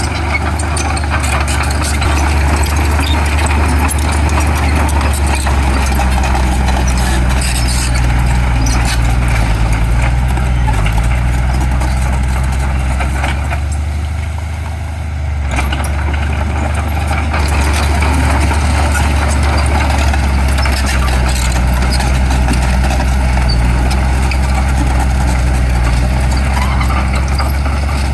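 Heavy diesel earthmoving machinery running hard under load, with a steady low engine note and a continuous clatter of metal and stone. The engine eases off briefly about halfway, then picks up again.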